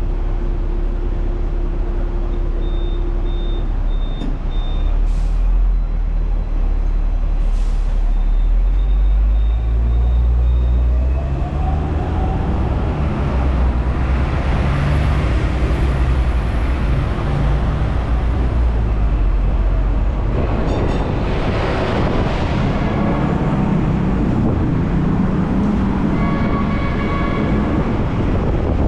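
Hong Kong electric tram running: a steady deep rumble of motor and wheels on rail, with a motor whine rising in pitch as it speeds up a little over ten seconds in, and a burst of hiss about twenty-one seconds in.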